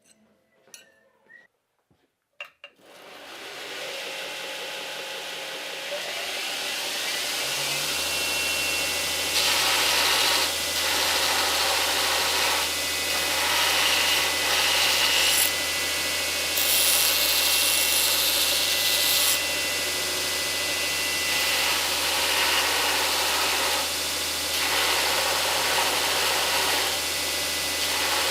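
An electric shop power tool is switched on after a few light clicks. Its motor winds up over several seconds to a steady hum, and then comes a series of grinding or sanding bouts of one to three seconds each as work is pressed against it.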